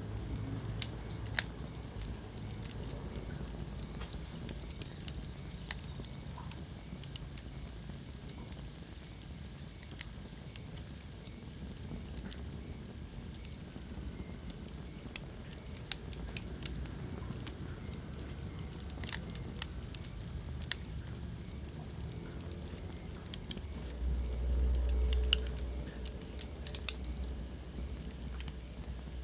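Wood fire crackling in a fireplace: sharp irregular pops and snaps over a steady low rumble of the burning fire, with a louder low rumble for a second or so about four-fifths of the way through.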